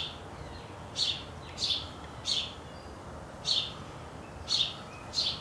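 A small bird chirping: about six short, high chirps, each falling in pitch, roughly one a second.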